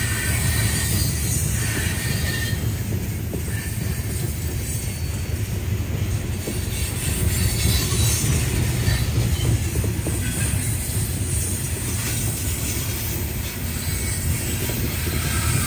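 CSX coal train of hopper cars rolling past close by: a steady low rumble of steel wheels on the rails, with faint wheel squeal now and then.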